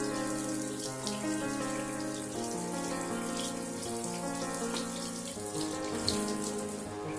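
Water running steadily from a tap into a sink, under background music of slow, sustained notes.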